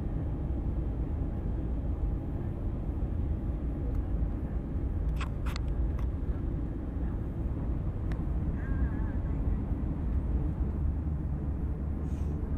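Steady low rumble of a train running at speed, heard inside the passenger car, with a couple of sharp clicks about five seconds in.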